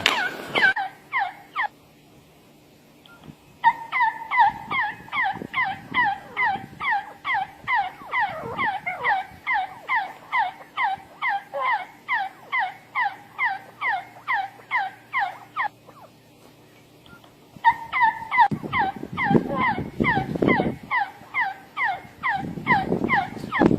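A bird calling over and over in long series of short, falling notes, about two a second, with a pause of a couple of seconds between series.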